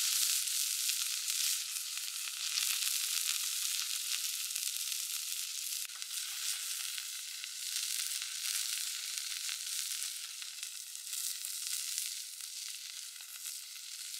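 Food frying in plenty of hot oil in a pan: a steady sizzle with many fine crackles, easing slightly near the end.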